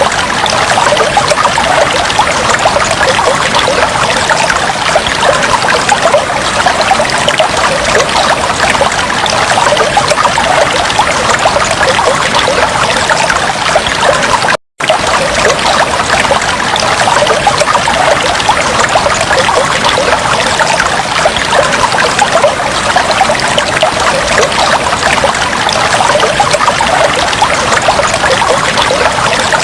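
Fish tank water trickling steadily, with a split-second break to silence about halfway through.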